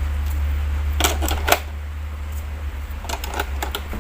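Sharp plastic clicks and knocks as batteries are fitted into a toy police car's battery compartment: a couple about a second in and a quick cluster near the end, over a steady low hum.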